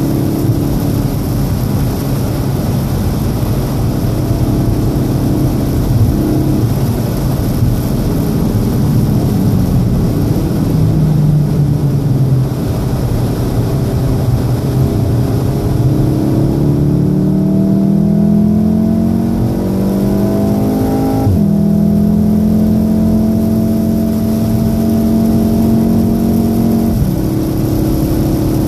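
Golf VII R's turbocharged 2.0-litre four-cylinder heard from inside the cabin over the hiss of tyres on a wet road. The car slows for a bend in the first half, then the engine note rises steadily under hard acceleration from about sixteen seconds in. About five seconds later it drops sharply with an upshift and runs steady after that.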